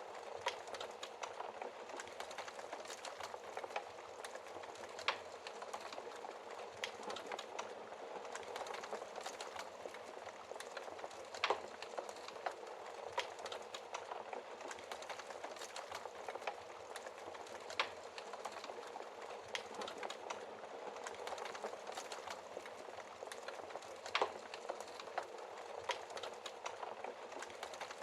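Wood fire burning in a fireplace: a steady soft crackle of burning logs with many small snaps and a few louder pops.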